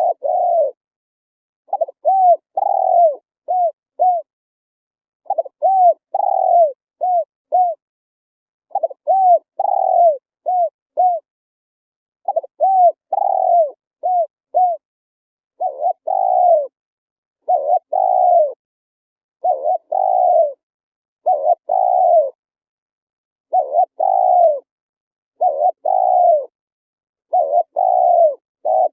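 Spotted dove cooing: repeated phrases of three to five arched coos, with a new phrase every three to four seconds and silence between.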